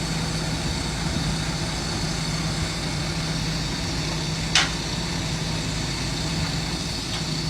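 Diesel engine of heavy construction machinery running steadily at a low, even speed, with one sharp metallic clank about four and a half seconds in.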